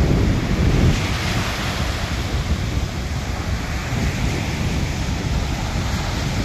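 Sea surf washing onto the shore, with wind buffeting the microphone in low rumbling gusts, strongest in the first second.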